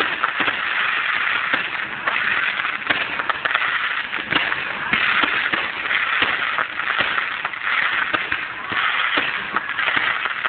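Aerial fireworks bursting with crackling stars: a continuous dense crackle with many sharp pops and bangs, swelling in repeated surges.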